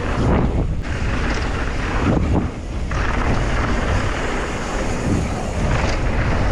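Wind buffeting the microphone during a fast mountain-bike descent: a loud, steady rushing with brief dips.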